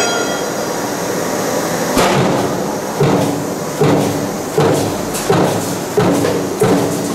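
Power press running a stamping die for table fan motor parts over steady machine noise. From about two seconds in it strikes in a regular rhythm, roughly one stroke every three-quarters of a second, each stroke a sharp knock with a brief metallic ring.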